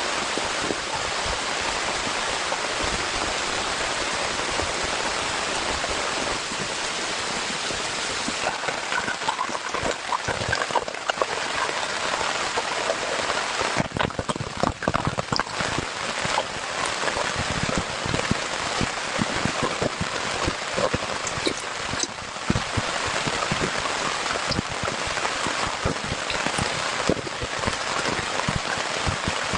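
Heavy rain falling, a dense steady hiss with many sharp taps of drops striking a nearby surface, the taps growing more frequent about eight seconds in.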